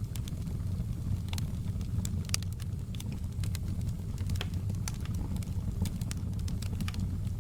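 Wood fire crackling in a fireplace: irregular sharp pops and snaps from the burning logs over a low, steady rumble.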